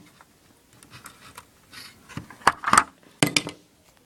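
Plastic Lego pieces clicking and clacking as the Lego delivery truck is handled and its back door is pulled off, with a few sharp clacks between about two and a half and three and a half seconds in.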